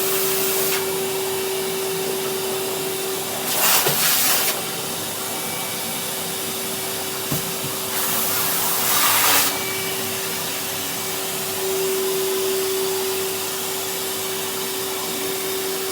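Vacuum cleaner running steadily with a constant hum and hiss. The hiss swells briefly twice, about four and about eight seconds in.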